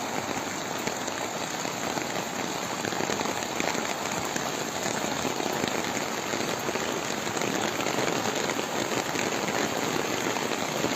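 Heavy rain falling on hard surfaces: a steady, dense patter of drops.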